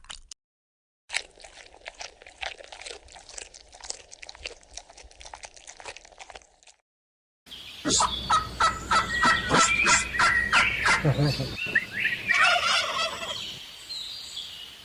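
Domestic turkeys gobbling, a rapid rattling run of calls. The calls are quieter at first and much louder from about seven and a half seconds in, after a short silent gap.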